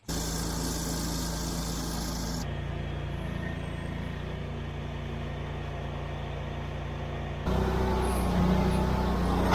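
Vehicle engine running steadily, in three spliced segments. The sound changes abruptly about two and a half seconds in and again about seven and a half seconds in, and is louder after the last change.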